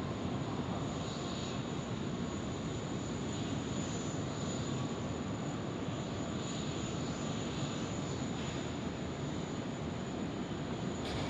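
Jet airliner engines running steadily, with a thin high whine over the engine noise.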